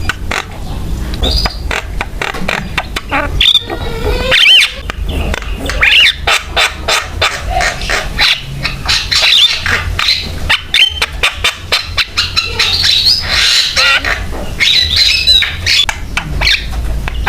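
Javan myna (jalak kebo) in full, continuous song: a fast run of harsh chattering and clicking notes mixed with short whistled glides.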